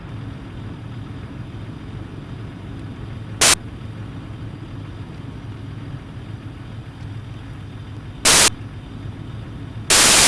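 Steady low rumble of a vehicle's engine and road noise heard from inside the cabin, cut by three sudden loud bursts of harsh noise: a brief one about three seconds in, another about eight seconds in, and a longer one near the end.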